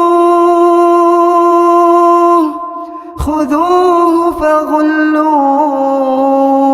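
Male voice in melodic Quran recitation, holding long, steady drawn-out notes. There is a brief breath pause with a short low thump about three seconds in, and the second held note steps down in pitch.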